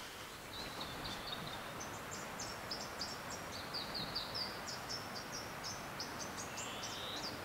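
A small songbird singing a long run of rapid, high-pitched chirping notes that jump between a few pitches, over a faint steady hiss.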